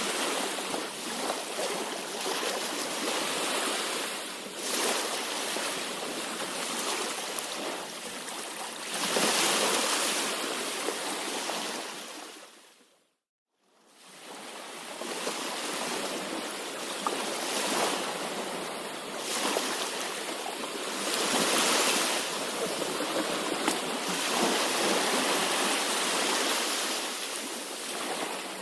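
Sea waves washing and surging, with swells every few seconds. About halfway through the sound fades briefly to silence and then fades back in.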